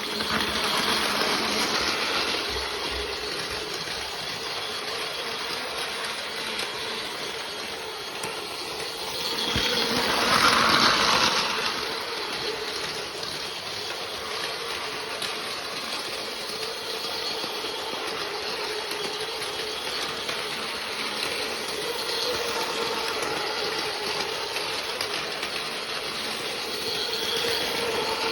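Plarail battery-powered toy train running on plastic track: a steady small-motor whine with wheels rattling over the rails, swelling louder for a couple of seconds about ten seconds in as it passes close.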